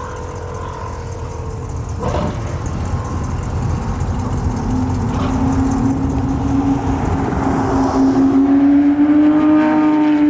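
Performance car's engine growing steadily louder as it drives up, with a strong held engine note that comes in about halfway through and climbs slowly in pitch as it builds. A sharp crack sounds about two seconds in.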